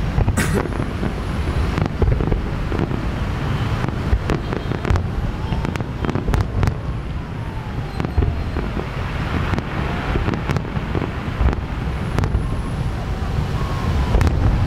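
Fireworks going off in a rapid string of sharp bangs and cracks over a steady low rumble, with faint whistles gliding in pitch now and then.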